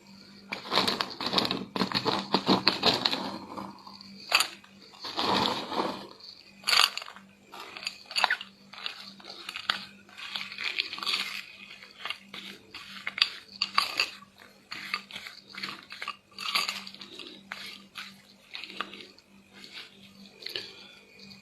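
Close-miked crunching and chewing of chocolate paste with small crispy chocolate chunks: an irregular run of crisp crackles and bites.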